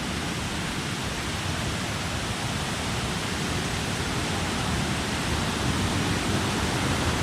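Rocky mountain stream rushing: a steady wash of water noise that grows slowly louder.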